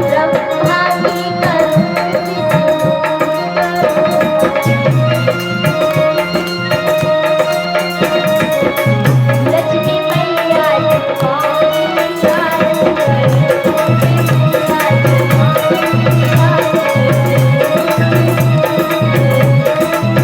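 Hindi devotional aarti music: a melody line over a steady tabla rhythm.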